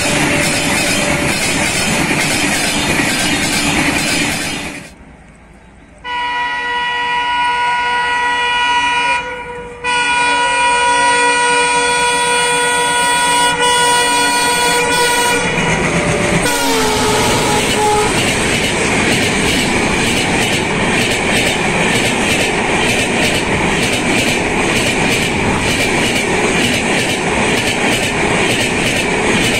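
A passenger train passing close with wheel clatter, which cuts off about five seconds in. Then an Indian Railways diesel locomotive sounds its multi-tone horn in two long blasts, and the pitch drops as it passes. After that the coaches rush past with steady wheel clatter over the rail joints.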